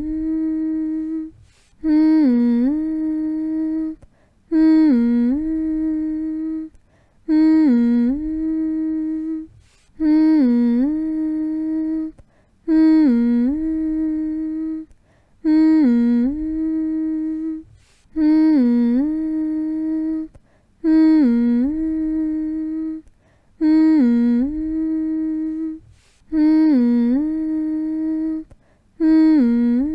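A person's voice humming one short phrase over and over: a quick dip in pitch, then a long steady held note. The phrase repeats identically about every two and a half to three seconds with brief breaks between, a looped lullaby-style hum meant to soothe a baby to sleep.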